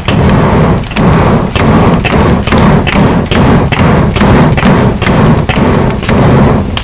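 Primitive double-acting piston air pump for a furnace being worked back and forth fast, pushing air on both the push and the pull: a rhythmic rush of air with a thud on each stroke, about two strokes a second, stopping at the very end.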